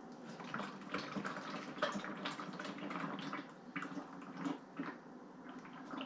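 Used engine oil pouring and splashing into a container, a steady liquid stream broken by irregular splashes.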